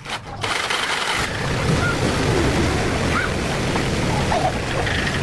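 A steady rushing noise that sets in about half a second in and holds evenly, with a few faint short calls or voices over it.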